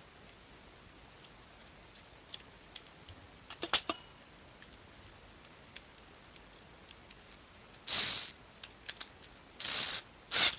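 Small plastic and metal parts of an RC model truck gearbox kit being handled and fitted by hand: scattered light ticks, a quick cluster of sharp clicks, then a few short scratchy noises near the end.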